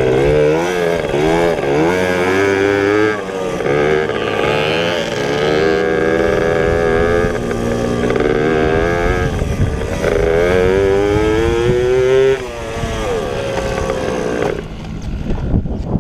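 Pit bike engines running hard, their pitch rising and falling with throttle and gear changes, more than one engine heard at once. The loudest engine drops away about twelve seconds in.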